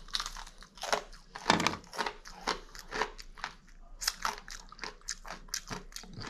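A person chewing crunchy breakfast food close to the microphone: irregular crunches, two or three a second, the loudest about a second and a half in.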